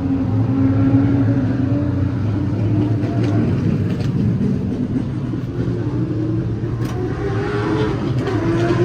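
Late model stock car engines running steadily, their pitch rising slightly near the end.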